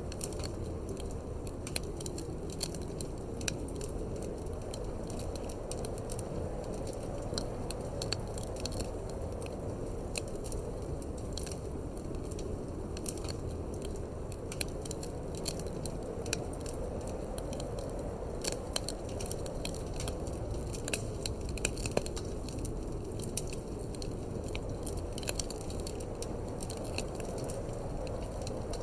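Wood fire crackling in a fireplace, with frequent irregular sharp pops and snaps over a steady low rumble of wind.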